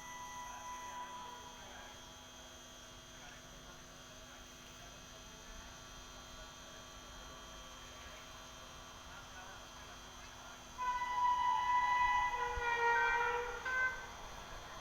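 A faint steady hum, then about eleven seconds in a train horn sounds for about three seconds, shifting in pitch in steps before it fades.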